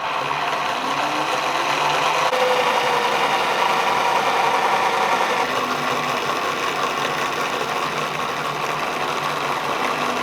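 Homemade angle-grinder-driven wood chipper running: a steady, dense mechanical whir of the grinder, sprocket chain and chainsaw-chain cutter drum, with a rise in pitch about two seconds in.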